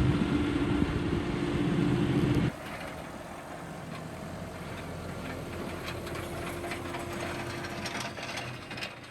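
John Deere tractor engine running, loud and steady, then dropping abruptly about two and a half seconds in to a quieter, fainter engine sound. Scattered clicks and rattles come in over the last few seconds.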